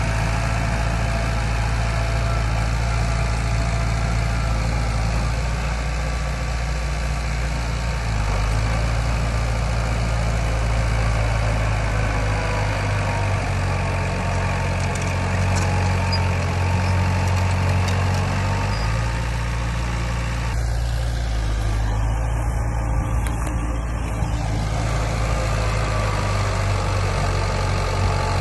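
Heavy diesel engine of earthmoving machinery running steadily, its pitch stepping up a couple of times and dropping back near the two-thirds point.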